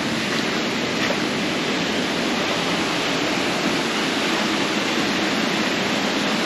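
Steady rush of water from a waterfall on a mountain stream.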